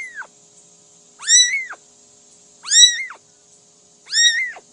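A cat meowing over and over, one high-pitched meow about every second and a half, each rising and then falling in pitch.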